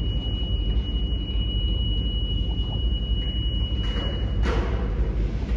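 New York City subway L train at a station platform: a steady low rumble with a thin high whine that cuts off about four and a half seconds in, followed by a short hiss.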